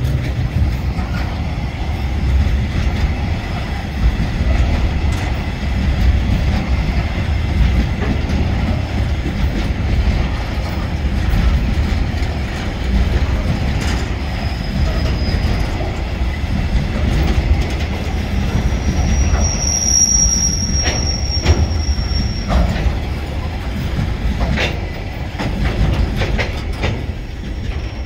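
Loaded freight wagons, coal hoppers and log flats, rolling past on a climbing grade: a steady rumble of steel wheels on rail with occasional clicks. Brief high-pitched wheel squeals come about 14 s in and again around 20 s.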